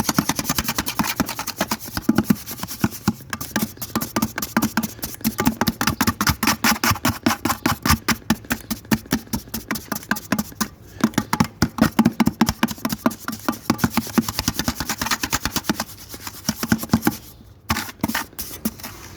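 Steel trowel scraping and mixing mortar in a container right after a little water is added, in rapid strokes several a second that stop near the end.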